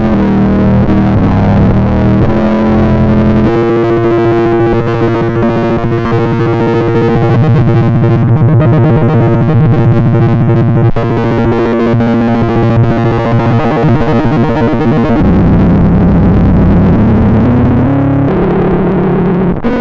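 Electric guitar recorded direct into a DAW through heavy digital effects, giving a distorted, synth-like tone of sustained notes. From about three and a half seconds in it turns into a fast pulsing texture, and near the end it goes back to slower shifting notes.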